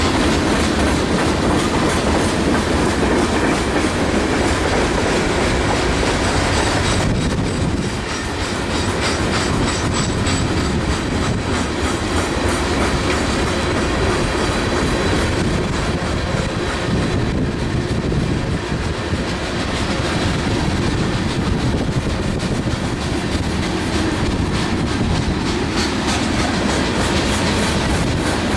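Freight train cars rolling steadily past, their steel wheels clacking over the rail joints.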